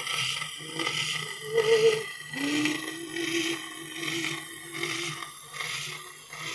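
Instrumental passage of an old Russian romance playing from a 78 rpm shellac record: a few sustained melody notes, one held for about three seconds, under heavy surface hiss that swells and fades a little more than once a second with each turn of the disc.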